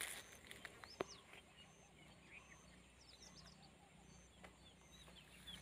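Near silence outdoors, with faint bird chirps and a faint high note repeating about once a second. A single sharp click comes about a second in.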